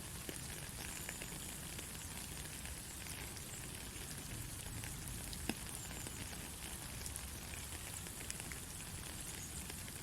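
Steady rain falling, with a dense patter of scattered drops and one sharper drop tap about halfway through.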